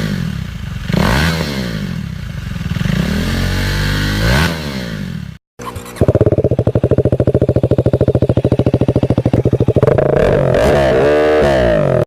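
KTM 390 Duke's single-cylinder engine through an aftermarket exhaust, revved up and down several times. After a short break it idles with a loud, even pulse, with one quick rev near the end.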